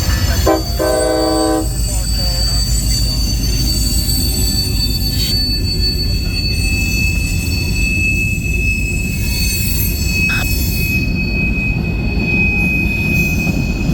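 CSX local freight train rolling by with a steady low rumble, its wheels squealing in sustained high-pitched tones, the squeal shifting to a lower pitch partway through. A short pitched tone, like a brief horn note, sounds about half a second in.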